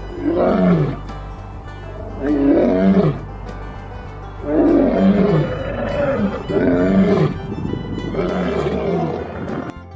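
Lion roaring: a series of about five deep calls, each falling in pitch and lasting under a second, about two seconds apart, the last one fainter.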